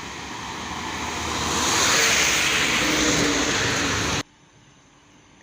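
A truck passing close by: a rushing engine and road noise swells to a peak, then cuts off abruptly about four seconds in.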